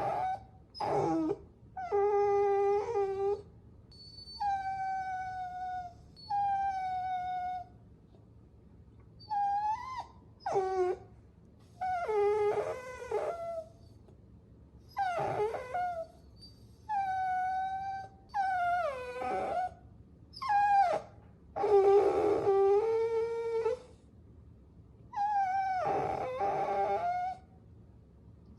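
Puppies whining: a string of about fourteen high, pitched cries with short pauses between them, each lasting from a fraction of a second to about two seconds, some wavering or falling in pitch.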